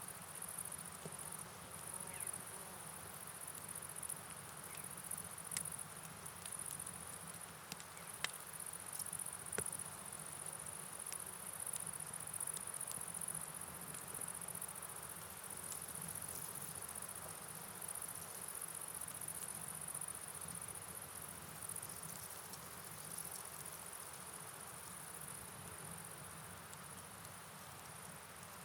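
Night ambience: a steady, high-pitched chorus of chirping insects such as crickets over a soft, even rush of rain and flowing river water, with a few scattered faint clicks.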